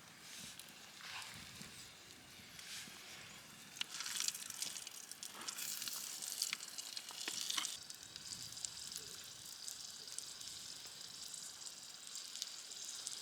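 Food frying in a pan, sizzling with sharp crackles and pops. It gets louder and more irregular about a third of the way in, then settles to a steady sizzle.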